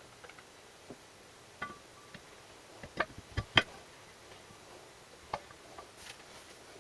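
Scattered light clicks and metallic clinks of small metal engine parts and tools being handled, one with a brief ring. The loudest come about three seconds in and again half a second later.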